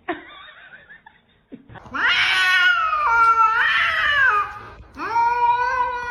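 A cat giving two long, drawn-out meows. The first wavers and jumps in pitch; the second falls away at the end.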